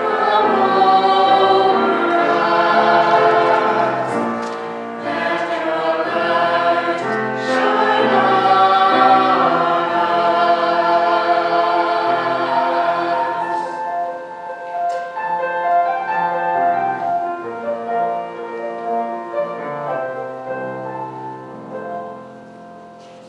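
Church choir singing sustained notes, full and loud at first, then softer from about halfway, fading near the end.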